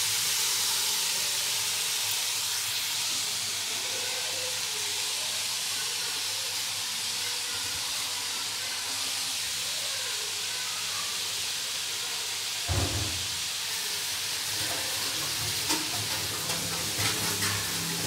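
Steady hissing sizzle of soaked, mashed soya mince frying in oil in a steel kadhai. There is a single dull knock about two-thirds of the way through and a few light clinks near the end.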